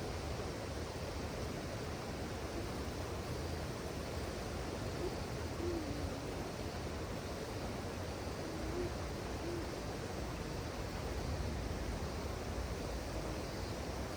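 Steady rushing of river water, with a few faint low hooting calls in the middle stretch, one of them falling slightly in pitch.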